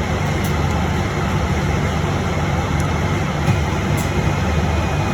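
Cabin noise inside a moving electric bus: a steady low rumble of road and tyres, with a few faint light ticks.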